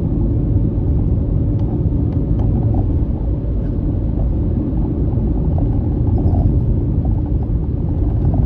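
Vehicle driving at steady speed: a continuous low rumble of engine and road noise.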